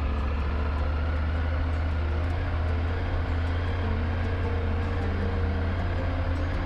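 Triumph Tiger 900 GT motorcycle's three-cylinder engine running at a steady pace while riding, a constant low drone with a steady engine note above it.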